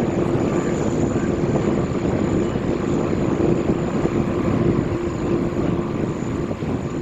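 Jet airliner engines heard close up, a loud steady rumble with a held humming tone in it.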